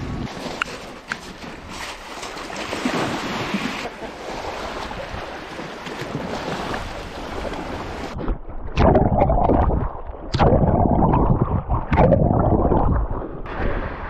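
Wind and waves on a lake shore in a snowstorm: a steady hiss for about eight seconds, then heavy gusts of wind rumbling and buffeting the microphone.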